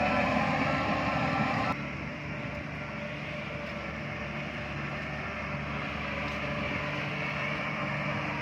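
Heavy diesel construction machinery running steadily. A truck's reversing beeper sounds in the first couple of seconds, then everything cuts off suddenly and is followed by a lower, steady engine drone.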